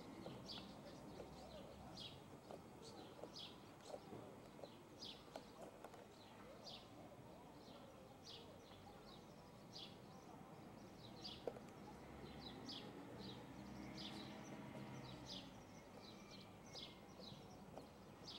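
Faint bird chirps, short high notes repeated irregularly, over a quiet outdoor background, with one soft knock about eleven seconds in.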